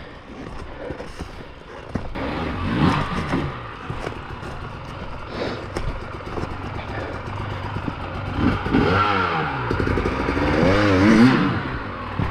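Dirt bike engine revving up and down in repeated blips, strongest in the second half, with clattering and scraping over rocks.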